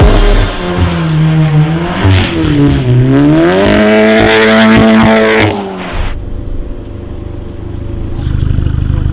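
VW Golf R Mk7's turbocharged 2.0-litre four-cylinder, breathing through an Armytrix valved exhaust, revving up and down repeatedly as the car drifts with its wheels spinning in snow. The engine note cuts off suddenly about six seconds in, leaving a quieter steady low hum.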